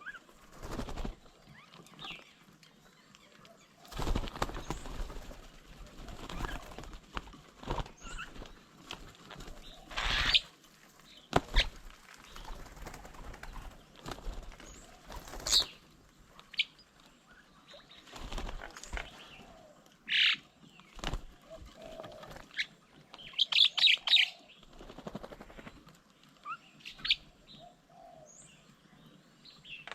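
Birds' wings flapping in repeated short bursts, the loudest about a third of the way in and again past the middle, with a few short chirps.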